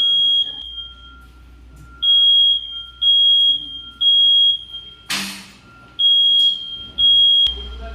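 Smoke or fire alarm sounding: a high-pitched beep of about half a second repeating roughly once a second, set off by an MCB (circuit breaker) fire. About five seconds in there is a brief loud burst of hissing noise.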